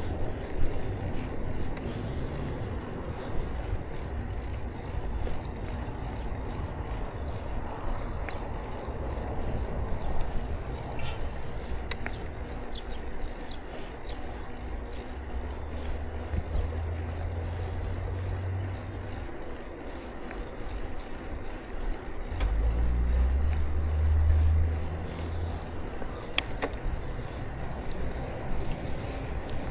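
Wind rushing over the action camera's microphone and tyre and road noise while riding a bicycle, a steady rumbling hiss with two stronger low rumbles about halfway through and again a few seconds later.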